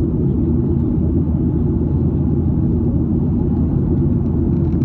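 Steady low rumble of an airliner in flight, the engine and airflow noise heard from inside the cabin, unchanging throughout.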